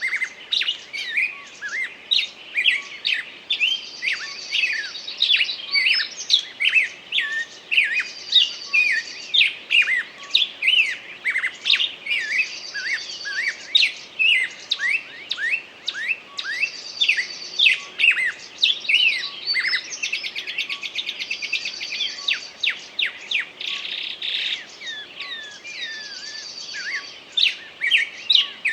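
Songbird singing continuously: a rapid run of short sweeping chirps, with a high buzzy trill that comes back about every four seconds.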